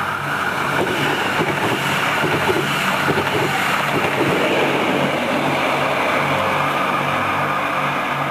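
Electric regional passenger train passing close at speed: a steady rushing of wheels on rail and moving air, loudest between about two and four seconds in, then settling to a lower steady rumble.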